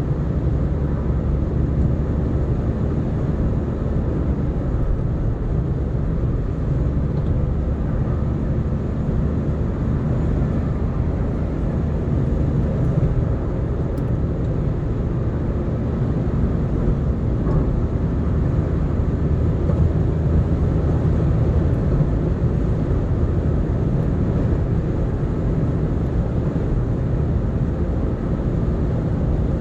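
Car cruising steadily on an expressway: a steady low engine hum under constant tyre and wind noise.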